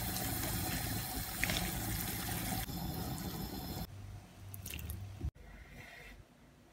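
Tuna frying in olive oil in a frying pan, a dense crackling sizzle that drops away about four seconds in. A few faint clicks follow.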